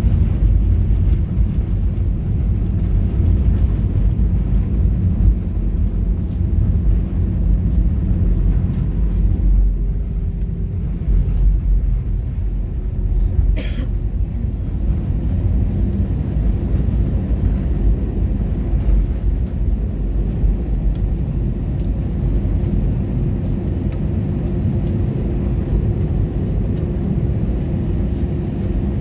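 Airbus A320 cabin noise: a loud, steady, low rumble from the airframe and engines during landing, with one brief sharp sound near the middle.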